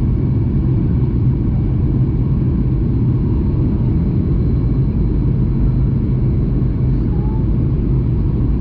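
Steady cabin noise of a Boeing 737 MAX 8 in flight: a constant deep rumble of its CFM LEAP-1B engines and airflow heard from inside the passenger cabin, with faint steady tones above it.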